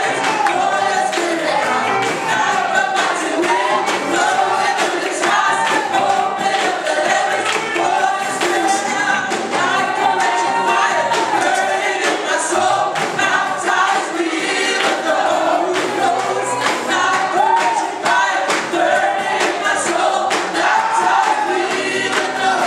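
Gospel worship singing by a choir or congregation, many voices together over instrumental accompaniment with steady percussion.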